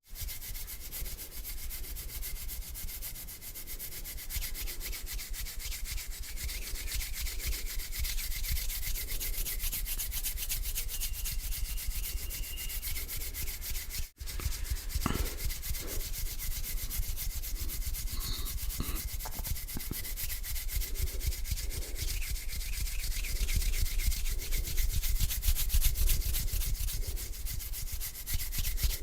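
Bare hands rubbing together slowly and continuously, a dry rasping swish. It breaks off for an instant about halfway, and a few soft knocks follow.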